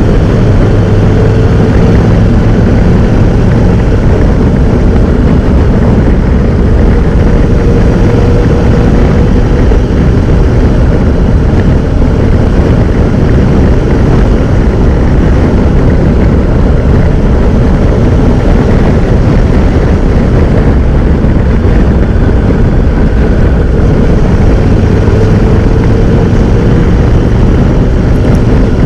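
Honda NC750X motorcycle riding at road speed: a loud, steady rush of wind noise over the low hum of its parallel-twin engine, whose pitch drifts slightly up and down.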